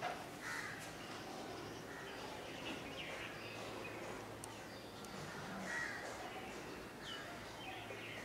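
Faint, scattered short harsh bird calls over quiet background noise, with a low steady hum underneath.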